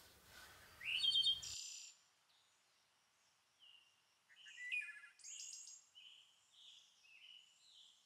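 Small birds chirping and calling. A loud rising chirp comes about a second in, and after a short lull there are scattered short gliding calls.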